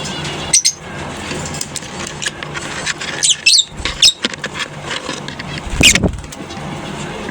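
Lovebirds in a colony giving short, shrill, squeaky chirps in scattered bursts, the loudest about six seconds in, over a steady low hum.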